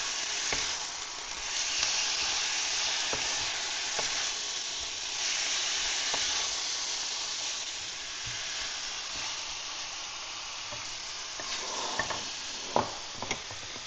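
Onion and garlic sizzling steadily in hot oil in a frying pan, with a few light clicks of a utensil against the pan, a little more frequent near the end.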